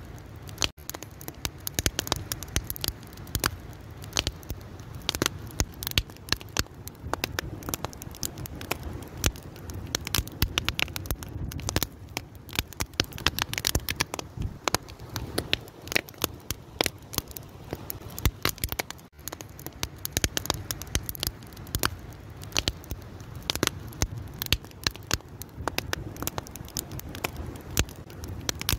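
Wood fire burning, with constant irregular crackling and sharp pops over a low rumble of the flames.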